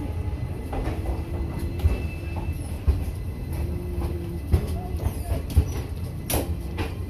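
Passenger train rolling slowly, heard from an open coach doorway: a steady low rumble of wheels on rail with scattered sharp knocks from rail joints and couplings, the clearest in the second half.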